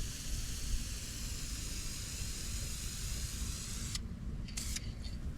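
Aerosol spray-paint can spraying: one long steady hiss that stops about four seconds in, then a short spurt near the end. Wind rumbles on the microphone underneath.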